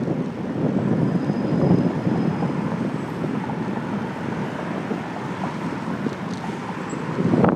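Wind buffeting and road rumble on a handlebar-mounted phone microphone on a moving bicycle: a steady, rough noise with no clear pitch.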